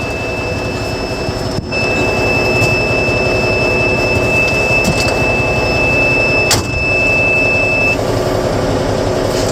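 Cab noise of a 5-ton AM General 6x6 army truck under way: its diesel engine and drivetrain running steadily under the road noise. A steady high-pitched whine runs through it and stops near the end.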